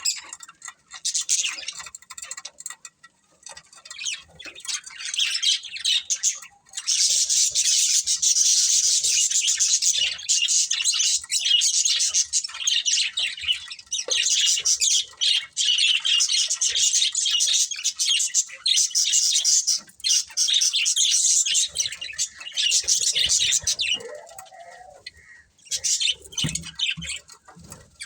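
Budgerigars chirping and chattering: scattered chirps at first, then a dense, unbroken run of rapid high chirps from about a quarter of the way in, thinning out near the end.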